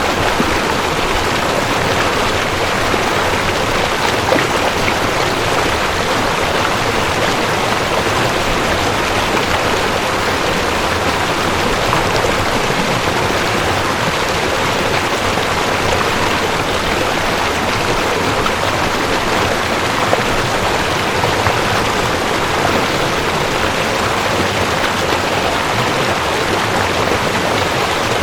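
Mountain stream rushing over rocks: a steady, even rush of water with no let-up.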